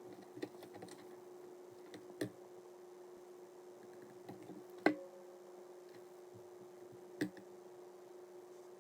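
Sharp clicks and taps from paper and cutting tools being handled while the notebook's sheets are measured and cut: four distinct clicks a couple of seconds apart, the third the loudest, with a few fainter ticks between. A steady low hum runs underneath.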